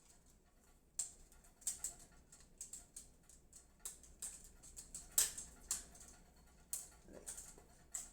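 Irregular sharp clicks and taps of hard plastic and metal parts being handled inside a desktop PC case, starting about a second in, with the loudest click near the middle.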